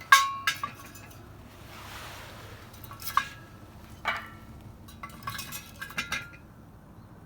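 Firewood-splitting work with a metal lever splitter: hard, clinking knocks, each with a short ring, come about eight times at uneven intervals. A brief soft hiss sounds around two seconds in.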